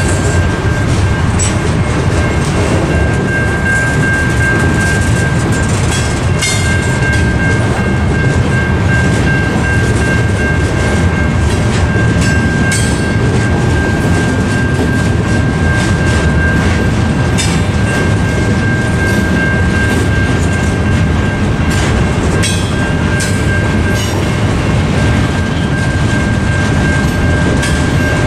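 Freight train cars rolling past a level crossing: a heavy, steady rumble with wheel clatter and a few sharper knocks. Over it sounds the constant high ringing of the crossing's Safetran Type 3 electronic bell while the signals are active.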